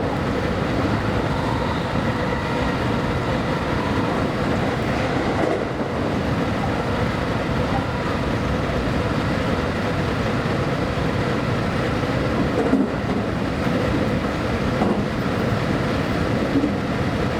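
JR West Special Rapid electric train running along the line: a steady rumble of wheels on rail with a faint, steady whine.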